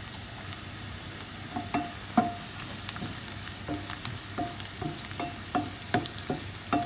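Sliced onions and bell peppers sizzling in a frying pan while a utensil stirs them and knocks against the pan. The taps are irregular and sparse at first, coming often from about halfway through.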